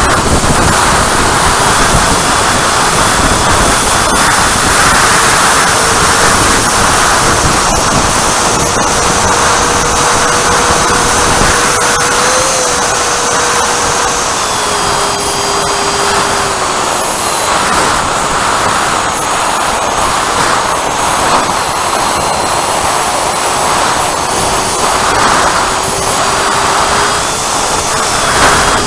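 Freewing Avanti S 80 mm electric ducted fan running in flight, a high-pitched whine that wavers up and down with the throttle, over a steady rush of air.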